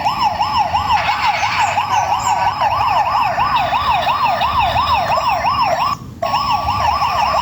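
Electronic toy police-car siren yelping, its pitch sweeping rapidly up and down about three times a second, with a brief cut-out about six seconds in.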